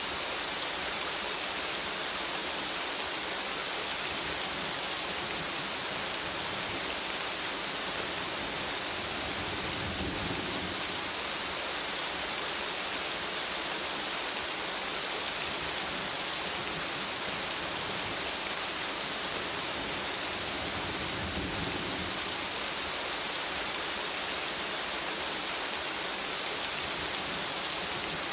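Steady rain falling in a forest, a dense even hiss of drops on foliage, with two brief low rumbles about ten and twenty-one seconds in.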